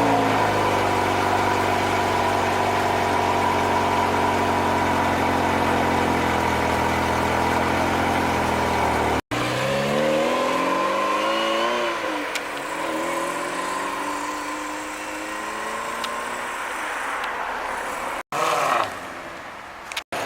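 Supercar engine idling steadily just after start-up. After a sudden break about nine seconds in, an engine note glides down and up in pitch and then runs quieter, with two more brief dropouts near the end.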